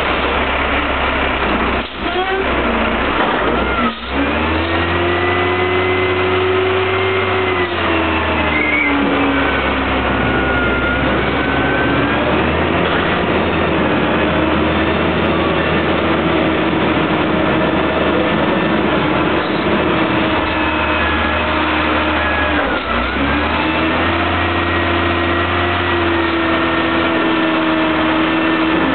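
Roll-off garbage truck's diesel engine running at raised revs to drive its hydraulics while handling a bin. The pitch climbs about four seconds in, sags a few seconds later, and climbs again near the end.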